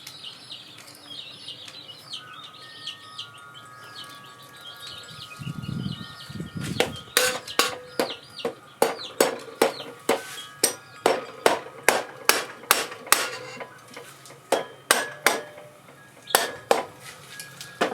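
Hammer blows on metal parts of a Honda VT700C engine, a steady run of about twenty strikes, roughly two a second, starting about seven seconds in, each with a short metallic ring. The parts are being knocked loose after they would not pop off by hand. Birds chirp before the hammering starts.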